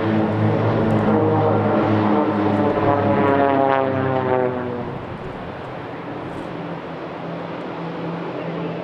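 Pilatus PC-7 turboprop trainers flying past, their propeller drone falling in pitch as they go by. About halfway through it drops to a quieter, steady drone.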